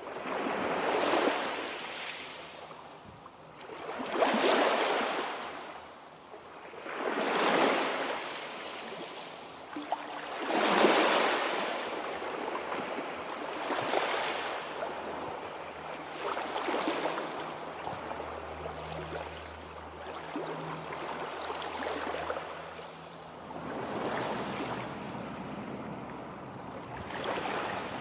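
Sea waves washing in and drawing back, one surge of surf about every three seconds, the strongest in the first half.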